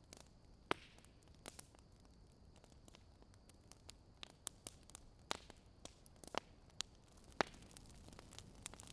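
Fire crackling: irregular sharp pops and snaps, about a dozen scattered through, over a faint steady hiss, with the loudest pop near the end.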